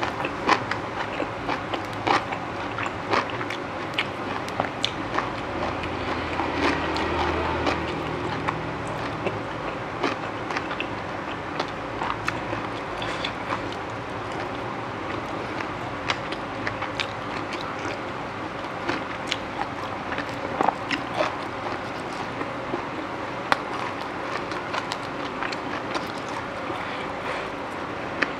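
Close-miked chewing and crunching of food, many sharp clicks, over steady passing-traffic noise, with one vehicle swelling past about six to eight seconds in.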